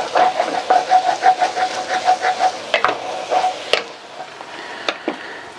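A cooking utensil knocking and scraping against a pot while browning ground beef is broken up, about four strikes a second for the first few seconds, then only a few scattered taps. Meat sizzles quietly underneath.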